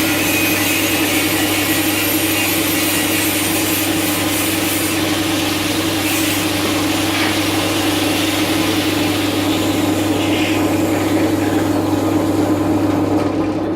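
A workshop drilling machine running steadily with a constant hum while drilling out bearing spacers; the higher cutting hiss thins out over the second half.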